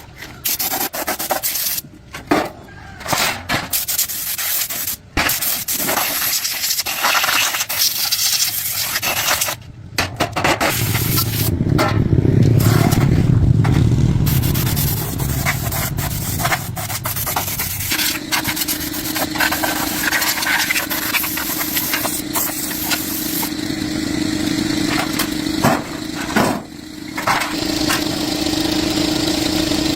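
Workshop tool sounds: scraping and sanding for the first ten seconds or so, broken by several abrupt cuts, then a low machine rumble. From about eighteen seconds a machine runs with a steady hum.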